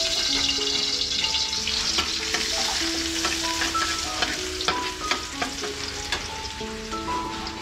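Food sizzling in hot oil in an aluminium wok, stirred with a metal spatula that clicks and scrapes against the pan from about two seconds in.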